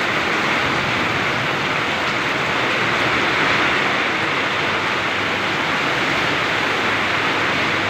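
Very heavy rain pouring down in a dense, steady hiss.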